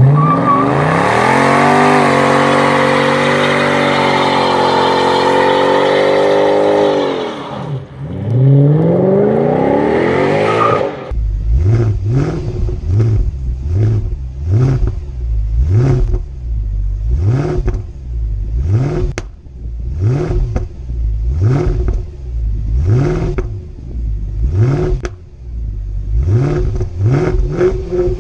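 Mercedes-Benz S63 AMG W221's M156 V8 running at high revs for about seven seconds, dropping, then climbing again in a rising sweep. After a sudden cut, it is revved in quick throttle blips, about one a second, over a steady idle.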